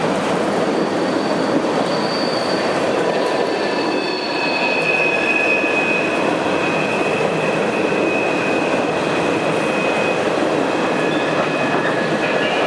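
Freight cars of a train loaded with trash containers rolling past: a steady, loud rolling noise of wheels on rail with high, steady wheel squeal, a higher tone for the first few seconds, then a stronger, lower squeal from about four seconds in.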